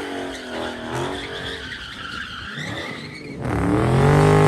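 Car engines revving with tires squealing and skidding, as cars do burnouts and donuts. About three and a half seconds in, the sound jumps abruptly to a louder, nearer engine revving up and down.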